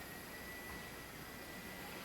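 XK K110 micro RC helicopter flying, its brushless motor and rotors giving a faint, steady high whine over a hiss.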